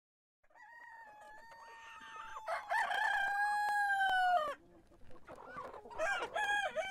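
A bird calling: one long held call that grows louder about two seconds in and falls away at its end, then a second, shorter, wavering call near the end.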